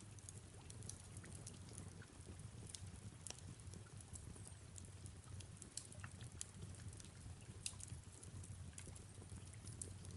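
Fireplace crackling, with irregular sharp pops and snaps over a soft, steady hiss of rain and a low rumble.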